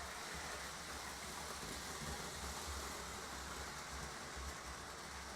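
Lionel model trains running steadily on the layout's track, a continuous whirring rumble of motors and wheels with no clear individual clicks.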